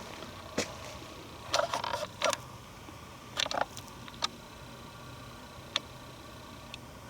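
Footsteps on a forest trail, dry twigs and leaves crackling and snapping underfoot in short irregular clusters over a steady low background.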